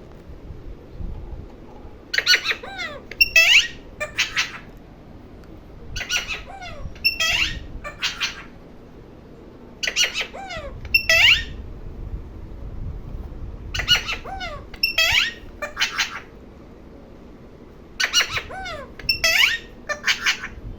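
A pet parrot squawking in five bouts of harsh, rapid calls, one about every four seconds.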